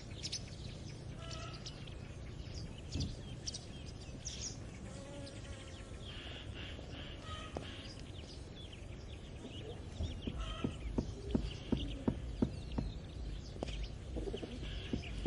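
Farmyard birds chirping, with chickens calling now and then. From about ten seconds in, a horse's hooves start clip-clopping, several knocks a second.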